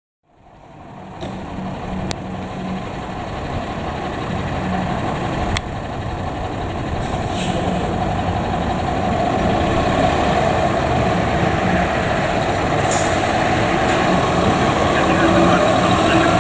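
Diesel engine of a 2018 Spartan pumper fire engine running with a low, pulsing rumble, growing steadily louder, with a few short clicks and brief air hisses.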